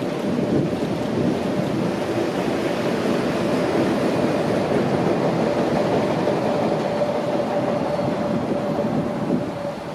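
Train running past: a steady, loud rumble of wheels on rail, with a steady whine held through most of it. It eases slightly near the end.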